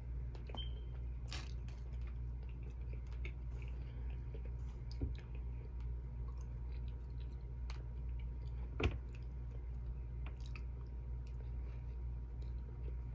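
A person chewing and biting baked chicken, rice and a soft dinner roll, with scattered small clicks and one sharper click about nine seconds in, over a steady low hum.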